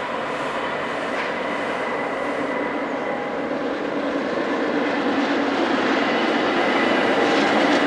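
Appenzeller Bahnen Ge 4/4 1 electric locomotive hauling passenger coaches: a steady rumble of running train that grows louder as it approaches, with a thin steady whine on top.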